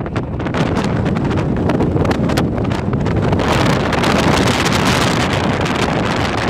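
Wind buffeting the microphone, a loud steady rushing with low rumble.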